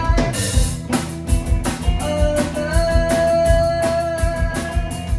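Live rock band playing: electric guitar holding long sustained notes over a steady drum-kit beat.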